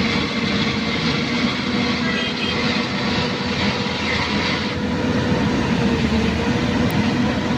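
Sumitomo SH210 hydraulic excavator's diesel engine running steadily.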